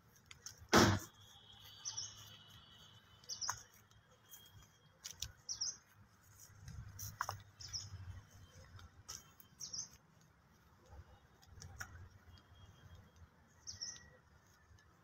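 A small bird chirping a short, high, falling call again and again every second or two. A sharp knock comes about a second in, with scattered faint clicks.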